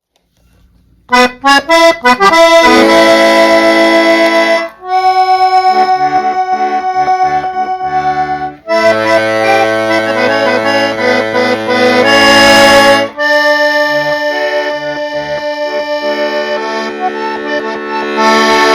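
Accordion playing: a few short stabbed chords about a second in, then held chords over pulsing bass notes.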